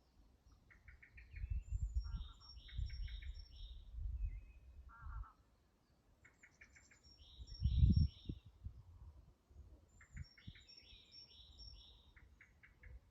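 Songbirds singing in woodland: repeated short phrases of quick stuttering trills and falling high whistled notes, in three bouts. A low rumble comes and goes underneath, loudest about eight seconds in.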